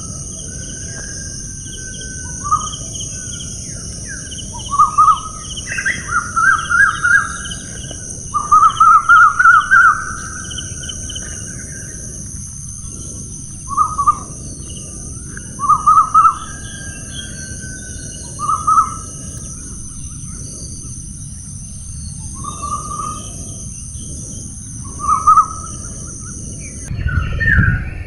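Birds calling in short, repeated notes, some in quick runs of several, over a steady high-pitched background hiss that cuts off shortly before the end.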